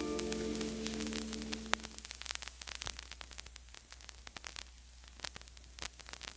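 Vinyl record playing the quiet groove between two tracks: surface crackle and scattered clicks over a steady low hum. The last held notes of the previous song fade out over the first two seconds.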